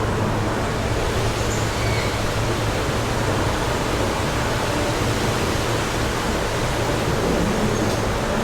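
Steady wind noise with a low rumble, plus a few faint high bird chirps about two seconds in and near the end.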